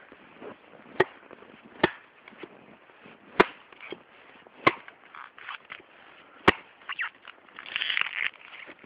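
Small hatchet chopping a dry log into kindling: five sharp strikes at uneven intervals, with lighter knocks between them.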